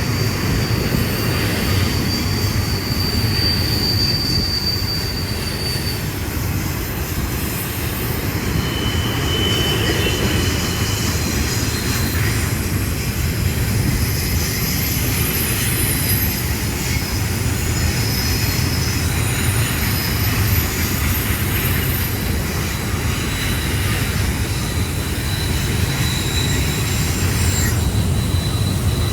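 Union Pacific double-stack container train rolling by: a steady low rumble of the cars on the rails, with thin high-pitched wheel squeals coming and going.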